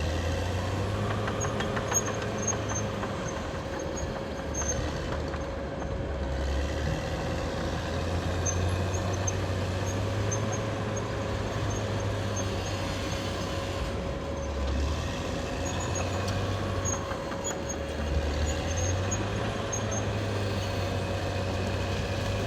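Caterpillar D6R XL bulldozer's diesel engine running continuously while working, its low note shifting every few seconds, with a steady whine above it.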